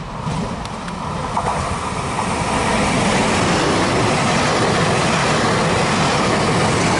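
A Trenitalia Pop electric regional train running past along the platform at close range. Its wheels rumble and rush on the rails, growing louder over the first few seconds as it draws level, then holding a steady loud roll.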